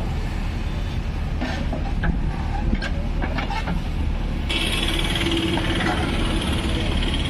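JCB 3DX backhoe loader's diesel engine running steadily, with a few short clanks in the first half. About four and a half seconds in, a higher hissing whine comes in and holds.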